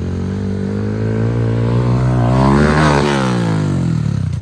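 Dirt bike engine running hard as the bike passes close by, loudest about three seconds in, its pitch dropping as it goes past; the sound cuts off suddenly at the end.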